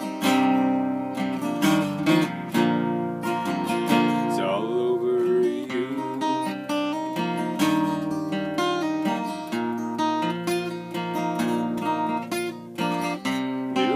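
Acoustic guitar playing an instrumental passage between verses, chords and notes struck in quick succession.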